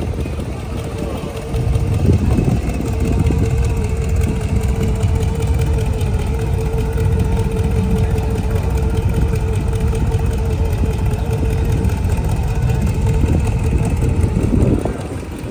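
Hot rod with an exposed engine running at a slow crawl as it rolls past, a steady, loud engine sound with a held tone through most of it.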